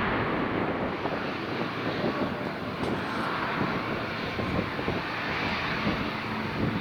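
Airliner engine noise as a plane passes near the airport: a broad, steady rushing roar, easing slightly after a louder peak just before.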